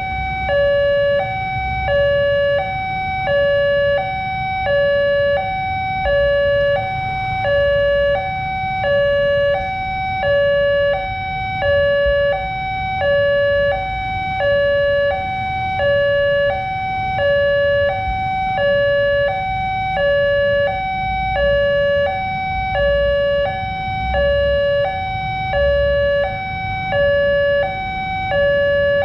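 Railway level-crossing warning bell: an electronic two-tone alarm alternating steadily between a higher and a lower pitch, sounding while the crossing is closed for a train. A low rumble of traffic runs underneath.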